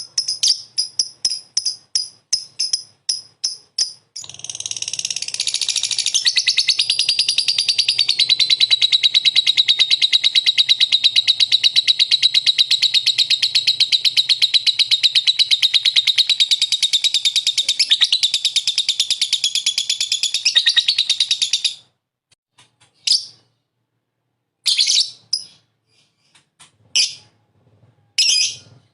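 Lovebird singing: about four seconds of rapid, evenly repeated high chirps, then a long unbroken rapid trill that cuts off suddenly after about 18 seconds, followed by a few scattered chirps.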